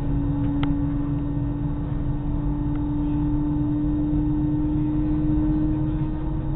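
Airliner engines droning, heard from inside the passenger cabin: a steady low rumble under a strong, steady hum that edges very slightly higher in pitch.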